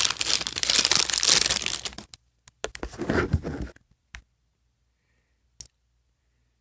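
Plastic toy blind bag crinkling and tearing as it is opened by hand: about two seconds of crackling, a short pause, then another second of it. Near the end, a couple of single faint clicks.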